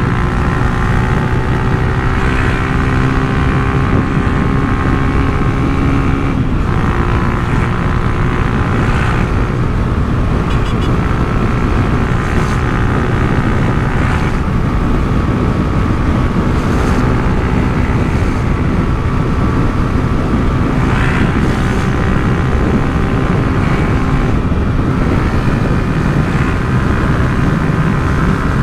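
Honda CG Titan 150's single-cylinder four-stroke engine running through an aftermarket Turuna exhaust. It holds a steady note whose pitch shifts now and then as the revs change.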